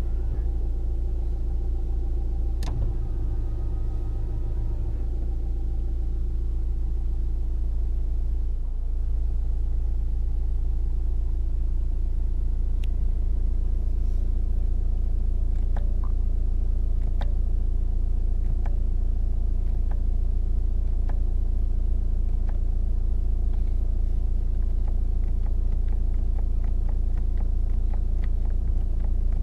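Nissan Juke's 1.5 dCi turbodiesel four-cylinder engine idling steadily, with a single click about three seconds in and scattered light clicks in the second half.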